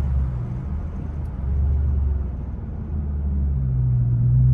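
Chrysler 300's Hemi V8 running on the move, a low engine drone with road rumble that grows louder over the last second and a half.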